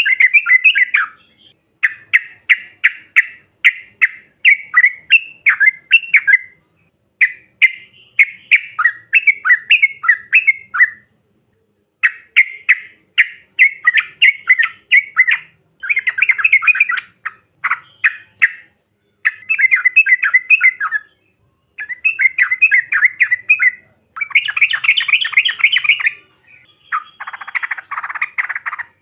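Yellow-vented bulbul (cucak trucuk) singing: phrase after phrase of quick, bubbling, chattering notes, each phrase lasting one to three seconds with short pauses between. Near the end, one phrase comes lower and rougher.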